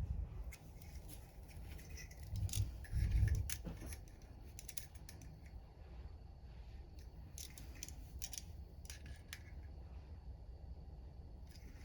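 Scattered light clicks and ticks, as of small hard objects being handled, with a couple of dull low bumps about two and a half to three and a half seconds in.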